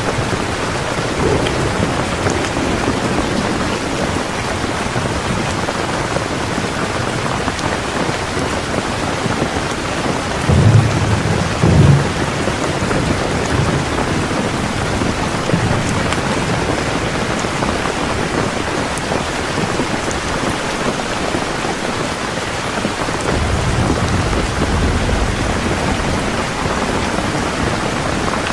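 Heavy rain falling steadily, with low rolls of thunder rumbling about ten seconds in and again near the end.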